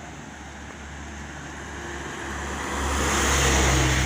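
A truck passing on the road: its engine and tyre noise grow louder and peak about three and a half seconds in.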